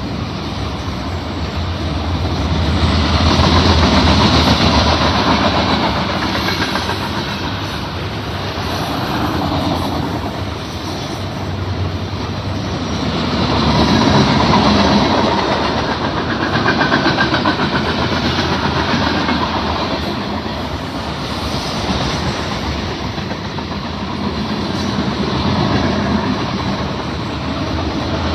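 Freight train cars rolling past close by: a continuous rumble of wheels clattering over the rail joints, growing louder and easing off again every several seconds.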